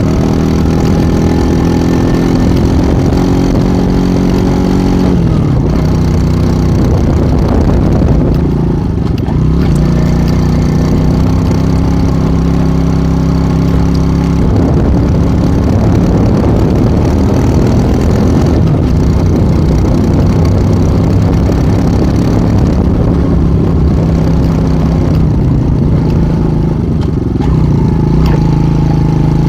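Tomos ATX enduro motorcycle's small engine running under way. Its pitch drops about five seconds in, then climbs back and holds steady.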